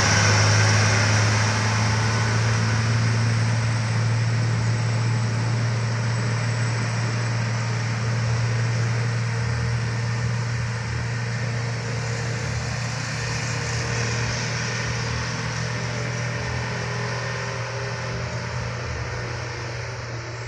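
Heavy road traffic: a large vehicle's engine running steadily with road noise, slowly getting quieter.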